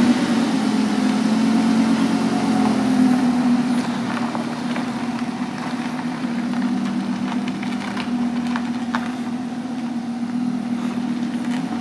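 Lamborghini Huracán's V10 engine idling steadily soon after a cold start.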